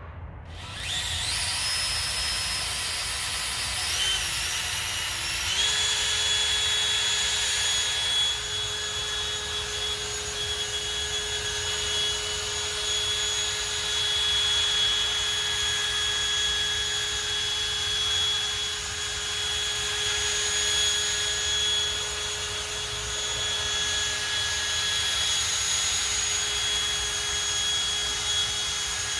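Power tool spinning a 1000-grit sanding pad against a plastic headlight lens. It starts about half a second in, its whine climbs in pitch over the first five seconds or so, then runs steadily at speed.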